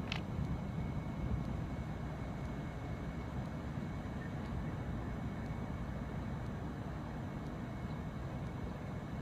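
Steady low outdoor rumble with a faint, constant high whine above it and a short chirp right at the start; no ship's horn sounds.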